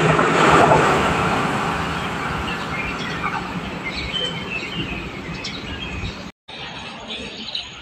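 Train rumbling past and fading away as it recedes, with small birds chirping over the dying noise. The sound cuts off abruptly about six seconds in, then resumes more quietly.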